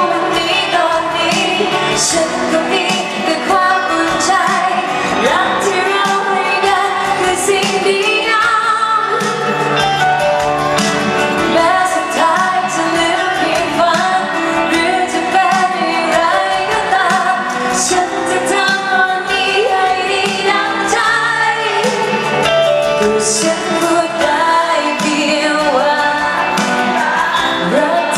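Thai pop song performed live: a woman singing over band accompaniment, with cymbal crashes now and then.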